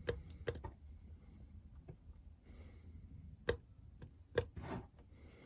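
Light clicks and taps of small parts being handled, with a few short soft hisses, as motorcycle oil lines are primed with fresh oil.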